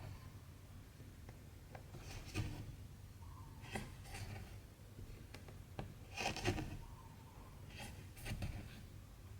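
Needle and cotton thread being drawn through cross-stitch fabric: short rustling swishes a second or two apart, with a few faint ticks between them.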